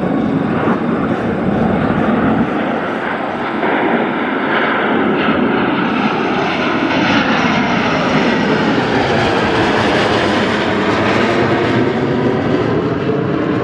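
Jet roar of the Blue Angels' F/A-18 Super Hornets flying past in echelon formation. It is loud and steady, with a sweeping shift in pitch as the jets pass.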